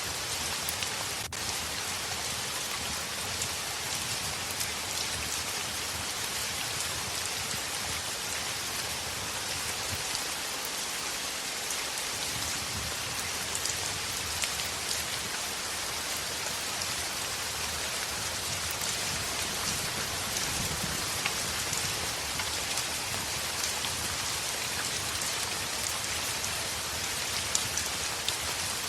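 Heavy rain falling steadily on a window pane, with scattered sharp ticks of individual drops.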